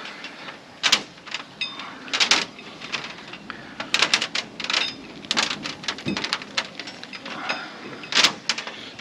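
Camera wire being wrapped and pulled tight along the combine's frame by hand: scattered clicks, rubs and short rasps of handling.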